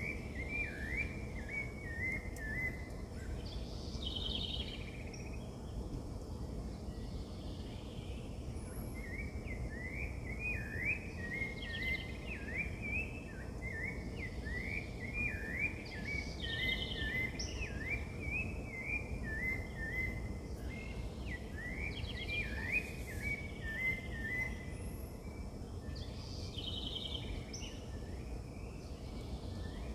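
Birds singing: runs of quick, short chirps, with a buzzy trill about every five or six seconds, over a steady low background rumble.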